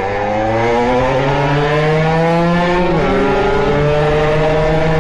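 Two-stroke Beta RR 50 engine with a 70cc Airsal kit and SCR Corse expansion pipe, pulling hard. Its pitch rises steadily, drops sharply about three seconds in at a gear change, then climbs again. A loud racket.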